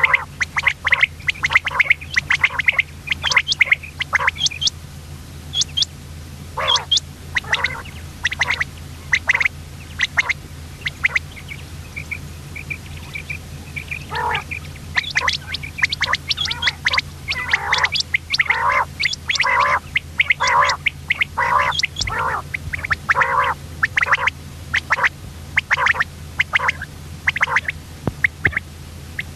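Common quail calling: quick runs of short, sharp calls, with a lull in the middle, over a steady low hum.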